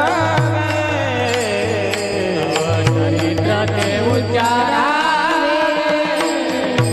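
Devotional kirtan singing: a single voice sings a winding, ornamented melody over a steady drone, with regular percussion strokes keeping the beat.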